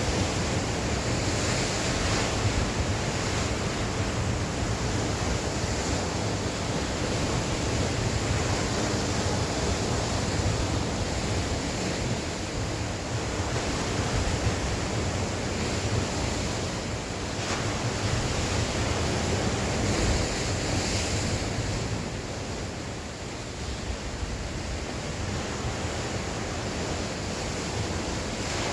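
Sea waves breaking and washing on the shore, in slow surges, with wind gusting over the microphone.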